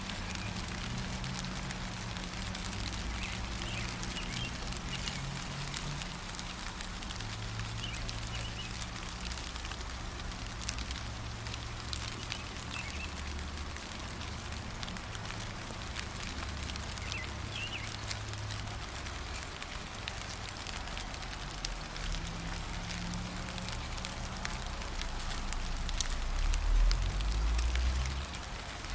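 Gentle rain falling steadily, with many separate drops ticking on surfaces, and a few brief bird chirps scattered through it. A low rumble runs underneath and grows louder near the end.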